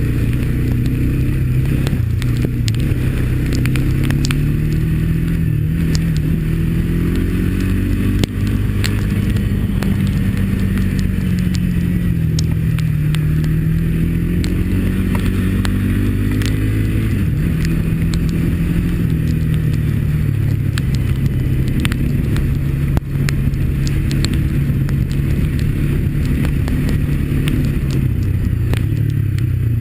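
Honda ATV's single-cylinder four-stroke engine running while riding, its pitch climbing about eight seconds in, easing back a few seconds later and climbing again near eighteen seconds. Scattered sharp clicks and knocks run throughout.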